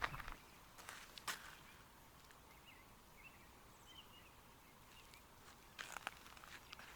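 Very quiet outdoor ambience with a few faint, short bird chirps in the middle, and a few soft clicks.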